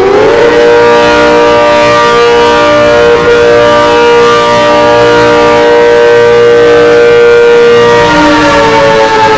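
ACA Hurricane 130 outdoor warning siren sounding the attack signal: its pitch rises at the start, holds steady for about eight seconds, then begins to fall near the end as part of the wavering rise-and-fall cycle.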